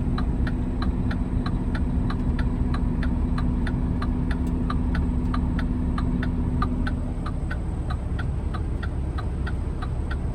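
Semi truck running, heard inside the cab, with a steady rapid clicking about three times a second. A low hum drops out about seven seconds in.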